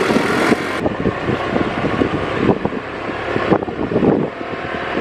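Wind buffeting the microphone over the noise of a moving vehicle, in irregular gusts.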